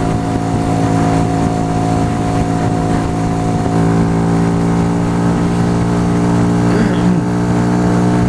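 Yamaha YBR125's single-cylinder four-stroke engine running at a steady cruising speed, one even engine note with a slight change in tone about four seconds in.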